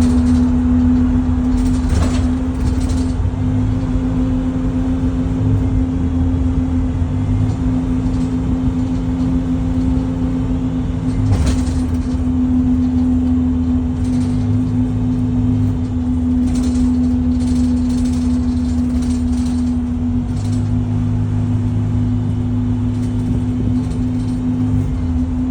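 Rear axle of a 2011 IC CE school bus giving a steady whine while the bus is driven, over a low drivetrain and road rumble that rises and falls. A few brief rattles or knocks, the sharpest about eleven seconds in.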